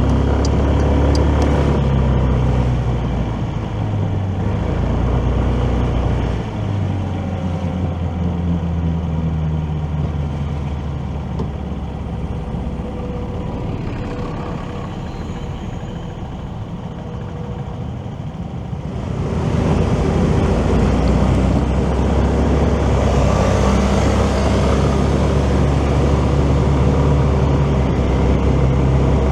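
A motorcycle engine running while riding in city traffic, its pitch rising as it accelerates several times, under steady wind and road noise. About two-thirds of the way through, a louder, wider rushing noise swells up and holds.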